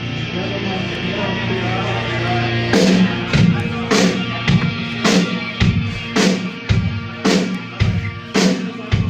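Live rock band playing an instrumental passage between sung lines. Held guitar and bass notes come first, then the drum kit comes in about three seconds in with a steady beat of about two hits a second.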